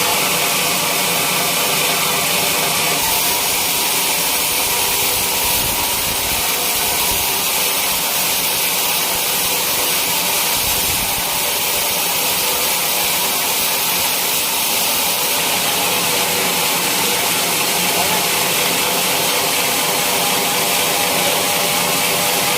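Sawmill saw running steadily: a loud, even mechanical noise with a constant hum and a strong hiss that does not change.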